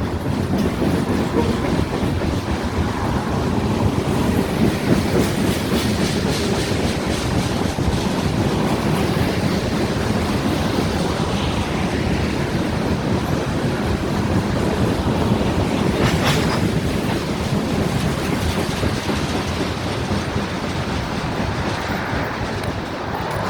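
Freight cars of a mixed freight train rolling past at steady speed, wheels clacking over the rail joints with continuous rumble, and one brief sharper noise about two-thirds of the way through.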